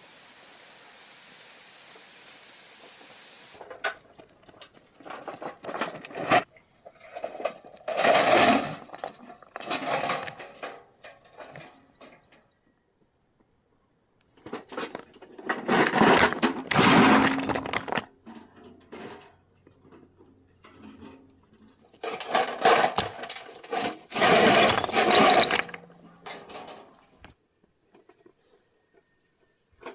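Loud bursts of scraping and crunching from hand work with stone and earth, each lasting one to three seconds, with quiet gaps between. A few seconds of steady hiss come first.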